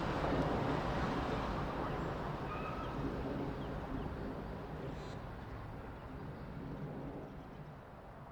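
A Staten Island Railway train's rumble fading steadily as it pulls away and recedes.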